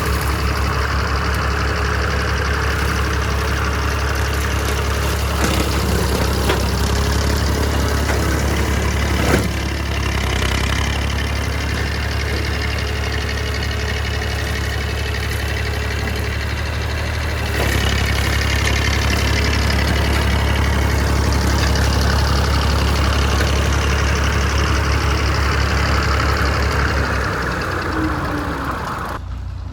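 Small tractor's engine running steadily while driving a large brush cutter, with a faint high whine over the low engine hum. One sharp knock comes about nine seconds in, and the sound gets a little louder a little past halfway.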